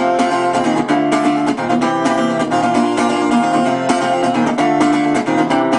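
Acoustic guitar strumming chords steadily, an instrumental passage between sung verses.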